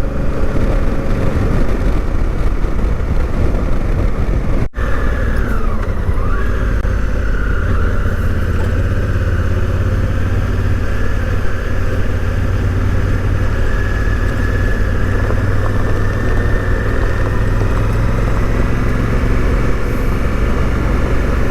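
Honda Africa Twin CRF1000L's parallel-twin engine running at a steady cruise, with road and wind noise, heard from the moving motorcycle. There is a momentary break in the sound about five seconds in.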